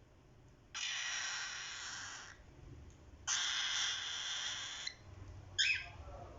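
Cockatiel chicks giving two long, harsh, hiss-like calls of about a second and a half each, followed by a short chirp near the end.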